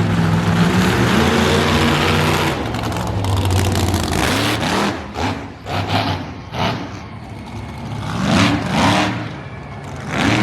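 Monster truck engine running loud and steady, then revved repeatedly from about halfway through, each rev rising in pitch and dropping away.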